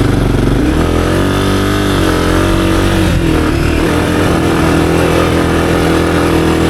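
Honda CRF250F single-cylinder four-stroke dirt bike engine running at low revs under load while climbing slowly, the revs rising and falling with the throttle.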